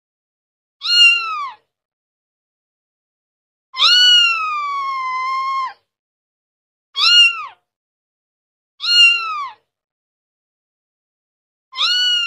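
A kitten meowing again and again: five high-pitched meows, each rising then dropping off at the end, with silence between them. The second, about four seconds in, is a long drawn-out meow of about two seconds; the others are short.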